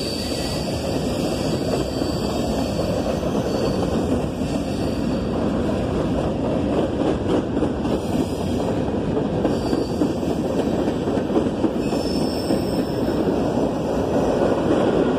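Freight train's covered hopper cars rolling past: a steady rumble of steel wheels on the rails, with faint high wheel squeals now and then.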